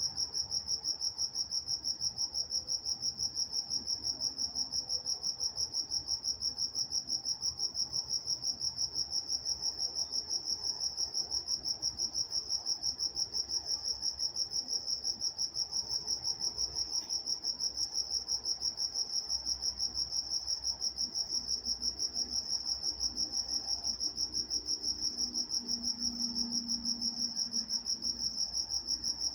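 Cricket chirping in a fast, steady, even rhythm: one high note pulsed over and over without a break.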